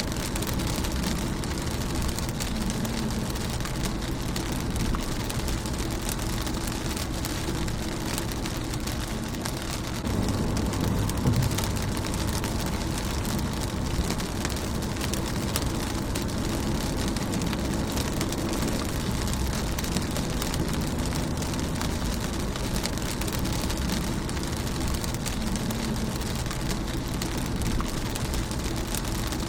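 Rain falling on a car's windshield: a steady hiss of rain with many small drop ticks over a low rumble. The rumble swells about ten seconds in.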